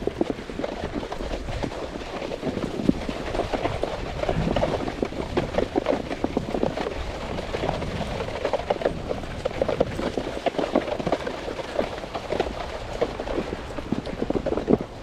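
Two huskies' paws crunching rapidly and continuously on snow as they run, pulling a snowboard.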